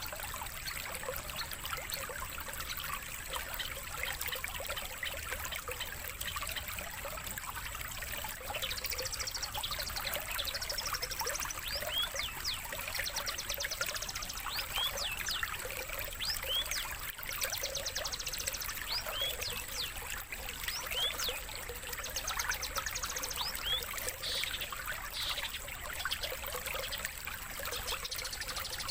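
Steady trickle of running water under a thin, steady high tone. From about eight seconds in, a songbird's short chirps, upward-sweeping notes and rapid trills come over it.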